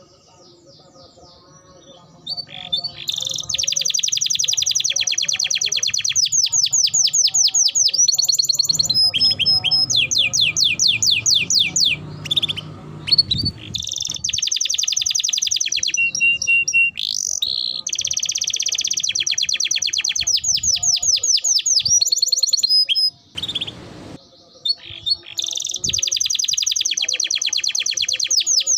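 Domestic canary singing in long, fast trills of rapidly repeated notes, phrase after phrase, after a quiet first two seconds and with a short break about two-thirds of the way through.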